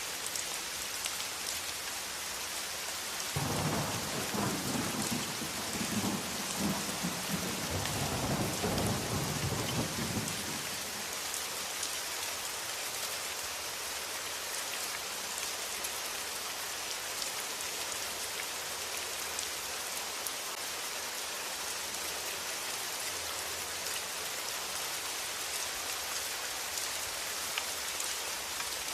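Steady rain, with a roll of thunder that starts suddenly a few seconds in, rumbles for about seven seconds and dies away.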